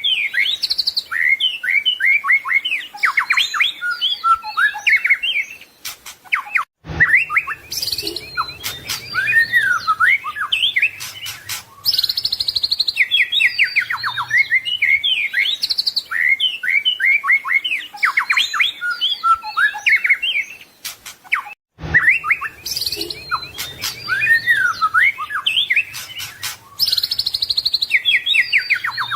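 White-rumped shama (murai batu) singing a long, varied song of quick whistles, sweeping notes and chattering trills, full of mimicked phrases. The song breaks off briefly twice, about seven and twenty-two seconds in.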